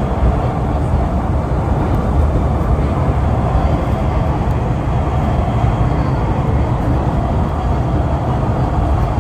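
East Rail Line R-Train electric multiple unit running between stations: a steady, loud rumble of wheels and traction.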